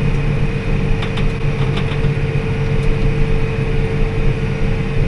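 Tractor engine running steadily during baling, a constant hum with a steady whining tone over it; a few light clicks come between about one and two seconds in.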